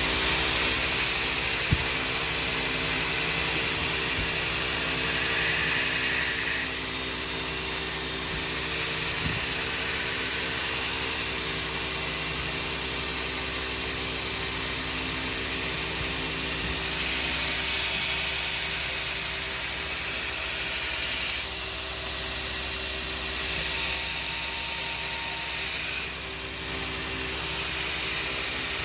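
Steady machine hum under a continuous hiss that swells and eases in stretches of a few seconds.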